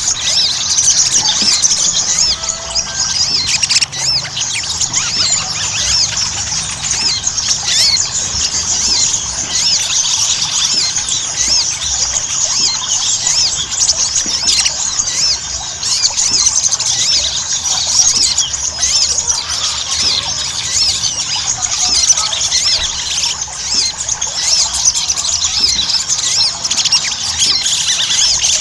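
Ruby-cheeked sunbird (sogon) singing without pause: a dense, rapid stream of high-pitched chirps and twitters.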